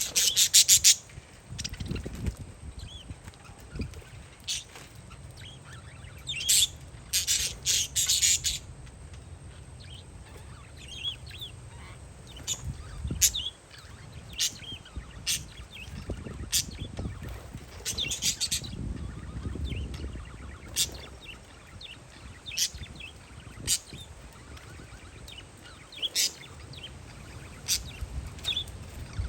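Parakeets chirping: sharp high calls in quick bursts at the start, around seven to eight seconds in and near eighteen seconds, with single chirps scattered between. Wind rumbles on the microphone underneath.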